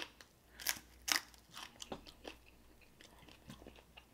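Chewing a mouthful of crispy fried chicken wing: several sharp crunches in the first couple of seconds, then softer, fainter chewing.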